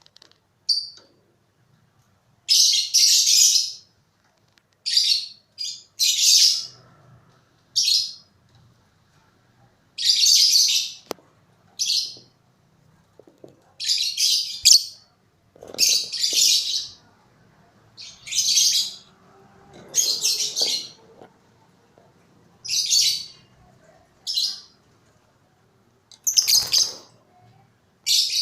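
Lovebird calling over and over in loud, harsh shrieks, each about half a second to a second long, coming every one to two seconds.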